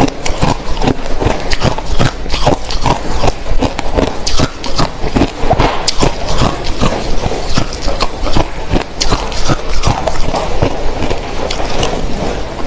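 Close-miked chewing of hard, clear crushed ice: a steady run of sharp crunches and cracks, about three a second.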